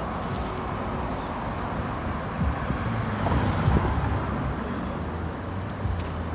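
Road traffic with a motor vehicle passing: a steady low engine rumble that swells to its loudest a few seconds in, with a brief rush of tyre noise, then settles back.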